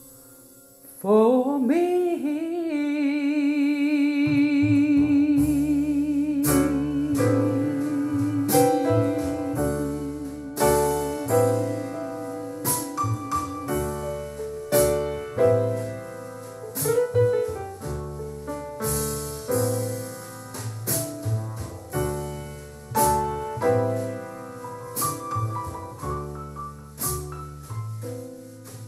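Vocal jazz ballad played back through a JBL Control 28 loudspeaker, an 8-inch woofer and 1-inch horn-loaded tweeter two-way speaker. About a second in, a singer holds one long note with vibrato over piano chords and a bass line; past the middle the voice drops out and piano chords carry on with the bass.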